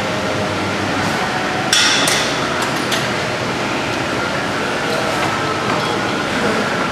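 Sharp metal clanks of gym weights, a cluster of them about two seconds in and a few lighter ones later, over a steady gym background noise.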